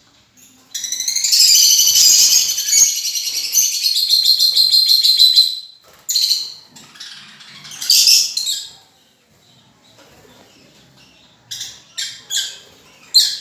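Pet lovebirds chattering: a long run of rapid high-pitched chirps lasting about five seconds, then a couple of shorter bursts and a few sharp calls near the end.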